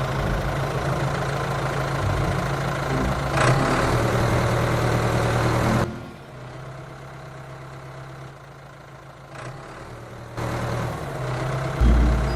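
Tractor engine idling with a steady low drone. It drops much quieter about six seconds in, comes back about four seconds later, and a low thump sounds near the end.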